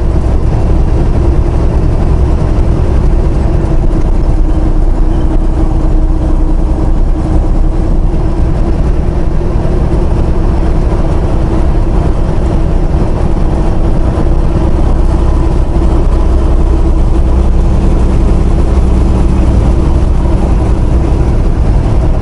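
Steady low engine drone and road noise inside a semi-truck's cab while driving, with a constant hum.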